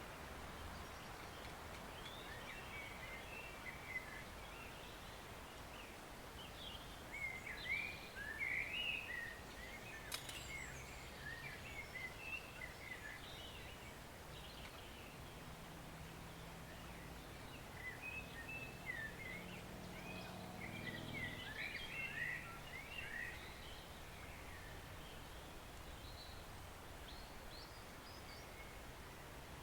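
Forest stream running with a steady rush, while small birds chirp and twitter in several short bursts.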